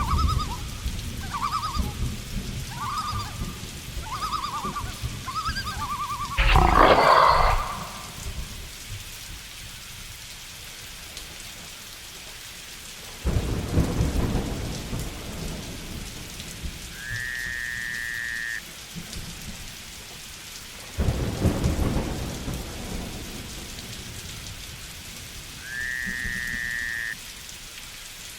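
Steady rain with thunder rumbling three times. Short repeated animal calls sound through the first few seconds, then a loud burst about seven seconds in, and later two long whistle-like tones that rise at the start and then hold.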